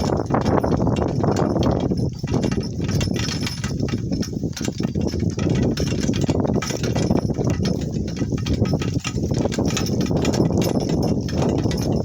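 Donkey cart rolling over rough, bumpy ground: a steady rattling rumble of the cart, with the donkey's hoofbeats clopping through it.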